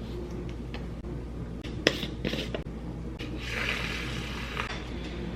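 Light household handling sounds over a low steady hum: a sharp click about two seconds in, a brief clatter just after, then a soft hiss lasting about a second.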